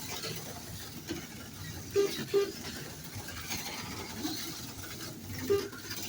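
HO-scale slot cars running on the track, a steady whir of small motors and wheels. Short electronic beeps from the lap-counting race software sound three times: about two seconds in, again just after, and once more near the end.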